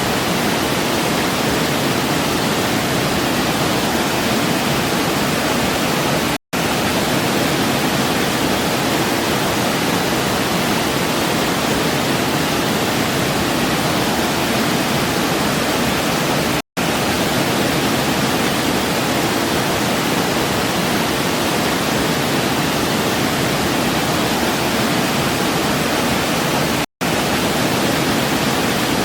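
Waterfall rushing in an even, full noise with no splashes or distinct events; it drops out to silence for an instant three times, about every ten seconds.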